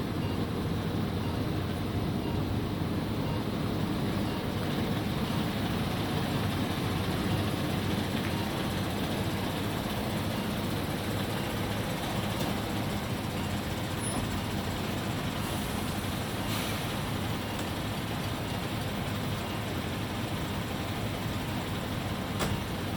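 Refuse lorry's diesel engine running steadily as the lorry is driven.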